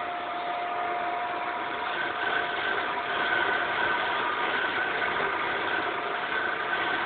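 Wood lathe running steadily: a constant motor hum with a steady whine.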